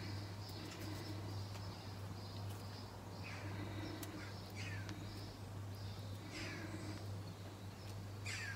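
Faint bird calls: a few short, falling calls about every one and a half to two seconds, starting about three seconds in, over a steady low hum.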